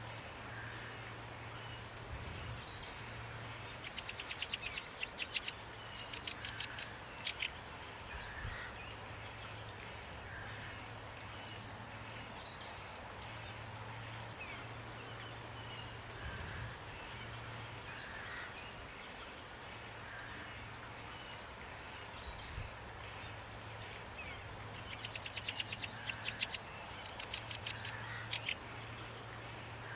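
Several songbirds chirping and singing, with bursts of rapid trills about four seconds in and again near the end, over a steady hiss of rain. A faint steady low hum runs underneath.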